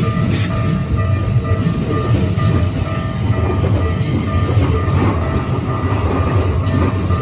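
Keikyu Line train passing over a level crossing: a steady low rumble of wheels on rail with intermittent clacks. Over it the crossing's warning bell rings on, about twice a second.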